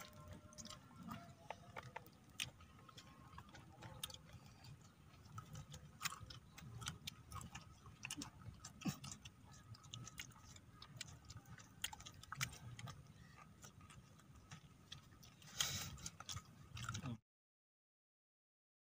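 Crisp, irregular crunching of raw vegetables being chewed: many small sharp clicks over a faint low background, then the sound cuts out to dead silence near the end.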